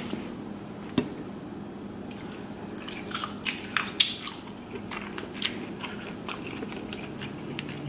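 A person chewing lobster meat close to the microphone: scattered wet mouth clicks and smacks, thickest in the middle, over a steady low hum.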